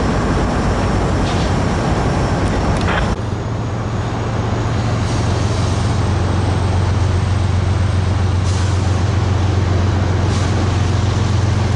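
A train rumbling past for about three seconds. Then an abrupt change to a diesel locomotive's engine running with a steady low drone.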